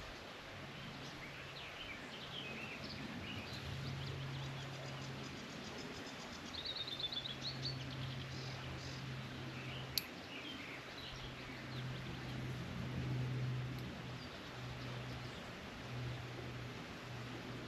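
Woodland birds singing and chirping, with a fast trill of quick repeated notes about seven seconds in. A low steady hum comes and goes underneath, and a single sharp click comes about ten seconds in.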